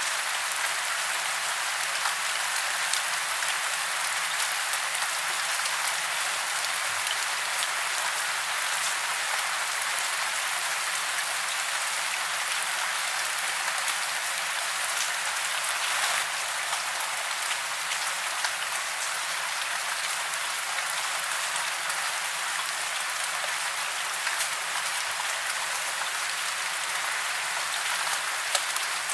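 Steady rain falling, a dense even patter of drops with no low rumble.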